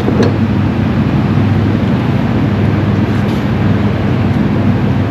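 Chevy pickup truck's engine running at a steady idle, a low even drone.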